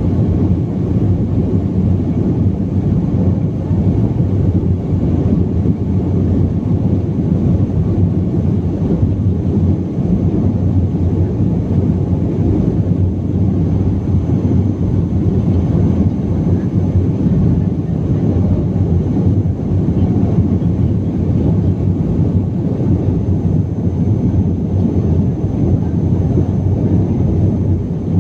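Steady, loud low rumble of a BAe 146 airliner's four turbofan engines and airflow, heard from inside the passenger cabin, with a faint high steady whine above it.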